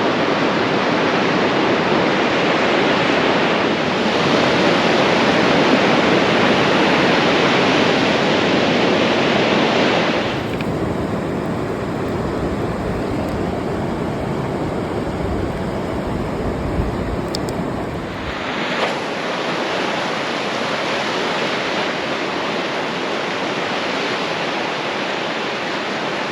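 Ocean surf breaking and washing up the beach in a steady roar of noise. About ten seconds in it turns duller, with a low rumble of wind on the microphone for about eight seconds, then the brighter surf returns.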